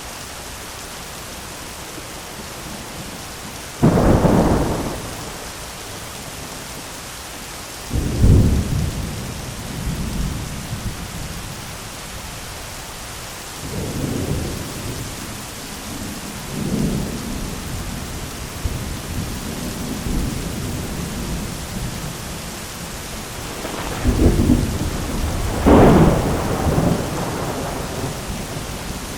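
Heavy rain falling steadily on an umbrella, with thunder through it: a sudden loud clap about four seconds in and another about eight seconds in, smaller rolls in the middle, and two loud claps close together near the end, each trailing off in a low rumble.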